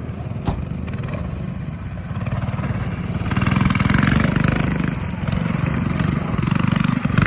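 Mini bike engines running in a race. The engines grow louder about three seconds in and again near the end, as bikes come closer.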